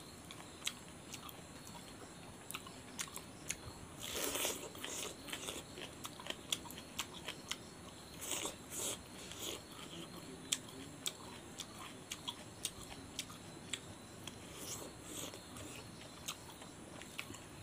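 A man eating with his hand: close-miked chewing with many sharp mouth smacks and clicks and occasional crunches, with louder bursts about four seconds in and around eight and a half seconds.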